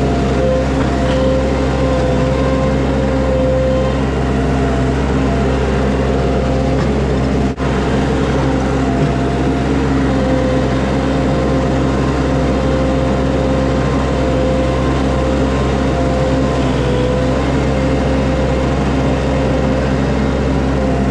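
Mini skid steer's engine running steadily, with a steady whine riding over the engine note.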